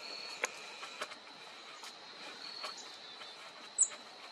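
Outdoor backyard ambience: a steady high-pitched insect drone with a few faint sharp clicks. About four seconds in comes one short, high bird chirp.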